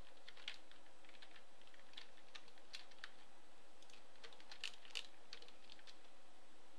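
Computer keyboard keys and mouse buttons clicking, faint and irregular, over a steady low hiss.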